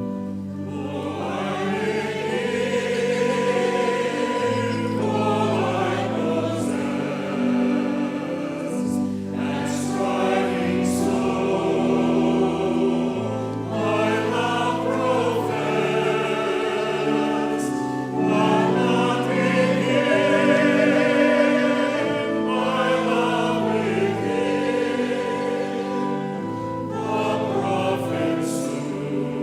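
Choir singing in church with organ accompaniment: the organ holds steady chords under the voices.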